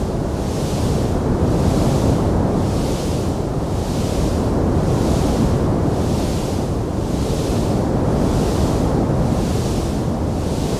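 Wood fire burning in a fireplace: a steady, dense rushing roar with a fainter hiss that swells and fades about once a second, and no sharp crackles standing out.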